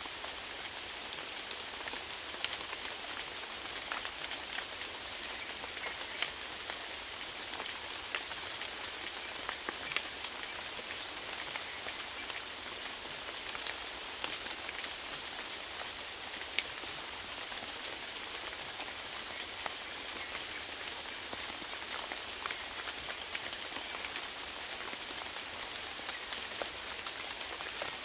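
Steady rain falling on a surface: an even hiss with scattered louder single drops ticking through it.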